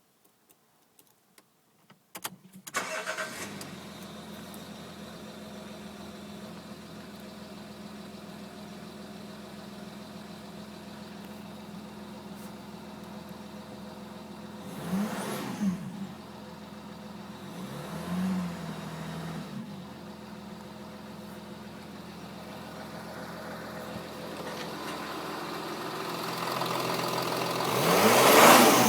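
Jaguar S-type's 2.7-litre twin-turbo V6 diesel starting after a few faint clicks about two seconds in, then idling steadily. It is blipped twice about halfway through, each rev rising and falling quickly, and near the end it is revved up again for longer.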